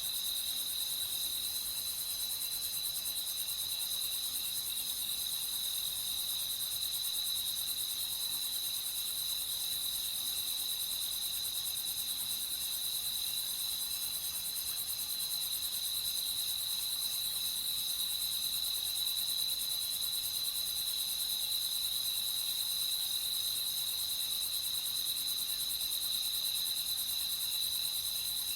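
A chorus of crickets chirping, a steady, continuous high-pitched trill with no breaks.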